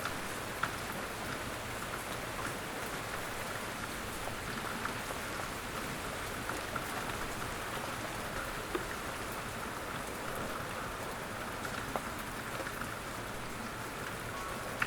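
Steady outdoor rain: an even hiss of falling rain with many small drops ticking on surfaces, a few of them louder single taps.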